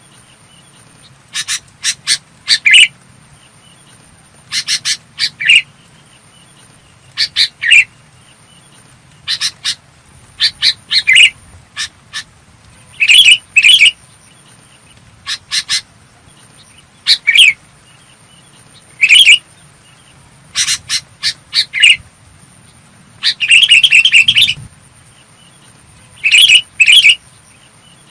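Sooty-headed bulbul singing: short, clear phrases of a few quick notes, repeated every two to three seconds.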